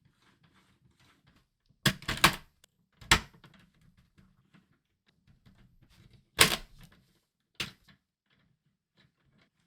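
Sharp clacks of hard Lego Technic parts knocking together: a quick cluster about two seconds in, another about a second later, then single clacks past the middle, with a faint low rattle between them.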